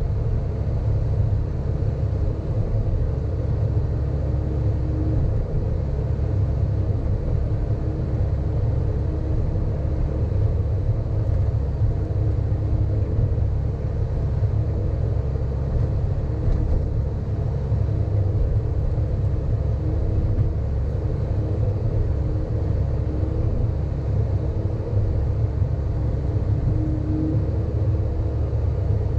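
Sany hydraulic excavator's diesel engine running steadily while the machine works, a low, even rumble with a faint whine that comes and goes.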